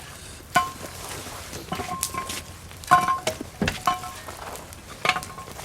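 Metal knocks and clanks, about half a dozen spread out, several leaving a short ringing note: a shovel putting hot coals onto a Dutch oven lid.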